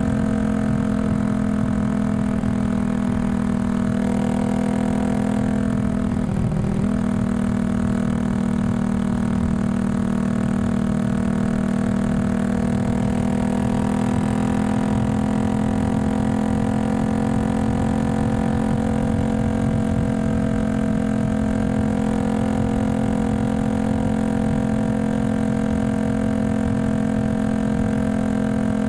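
Single-cylinder engine of a Yamaha XSR155 bored up to 183cc, idling steadily through a Norifumi full exhaust, with a short wobble in its note about six seconds in.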